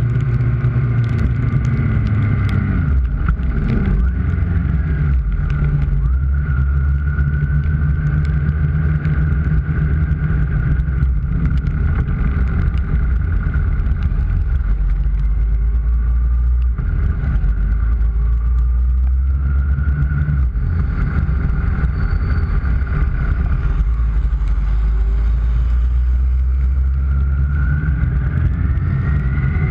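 Kawasaki ZX-6R's inline-four engine running at low, fairly steady revs, its pitch dipping and settling a few times, then rising near the end as the bike accelerates.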